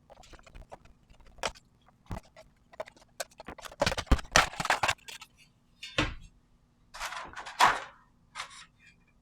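Handling noise as the metal case of an Antminer APW8 power supply is opened: scattered clicks and taps, then several longer bursts of scraping and rattling from about halfway through.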